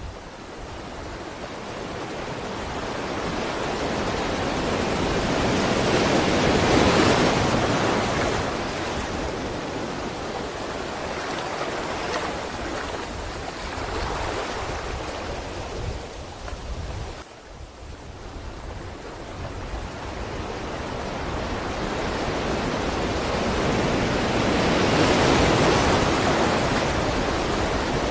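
Ocean waves washing onto a shore: a steady rush of surf that swells to a peak about a quarter of the way in, eases off, dips briefly past the middle and builds again to a second crest near the end.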